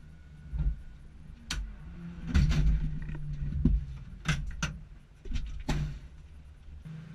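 Steady low car engine and road hum with a series of sharp knocks and thumps spread through it, the loudest cluster about two and a half seconds in.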